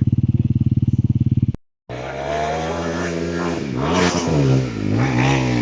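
Enduro motorcycle engine held at steady high revs, then, after a short break, revved up and down again and again. In the first part the rider is stuck in the mud with the rear wheel spinning.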